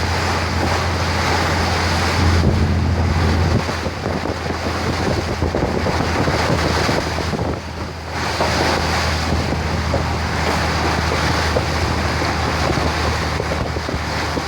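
A boat's engine running with a steady low drone, under wind buffeting the microphone and the rush of water. The drone swells briefly a couple of seconds in.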